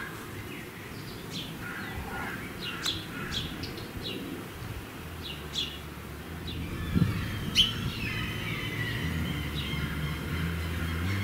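Small birds chirping outdoors, many short quick high chirps. About halfway through, soft music fades in underneath and grows.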